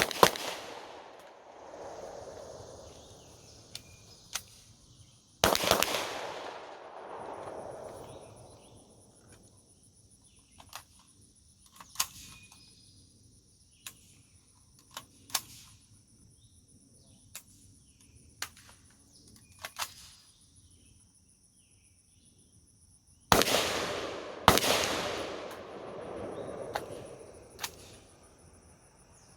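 Gunshots outdoors, each with a long rolling echo: a couple right at the start, one about five seconds in, and two a second apart near the end. Between them come a string of faint sharp cracks, over a steady high insect drone.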